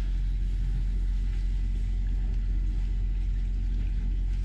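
Steady low rumble with no change in level.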